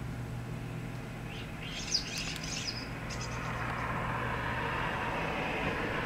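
A short burst of bird chirps and clicks, high-pitched, from about one and a half to three seconds in. Under it runs a steady low hum, and a rushing noise swells through the second half.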